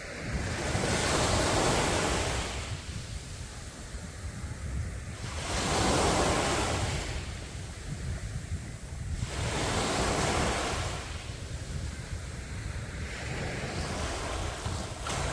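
Sea waves breaking and washing onto a beach, three surges about four seconds apart, with wind rumbling on the microphone underneath.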